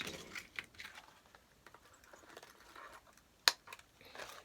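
Faint rustling and small clicks of ornaments and ribbon being handled while they are glued onto a wreath, with one sharp click about three and a half seconds in.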